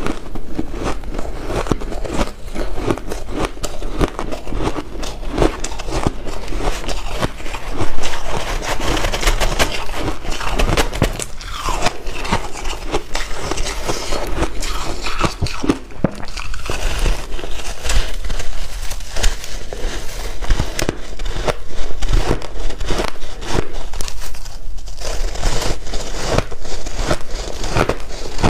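Close-up chewing of white ice: dense, continuous crunching and crackling, with many sharp crunches packed together.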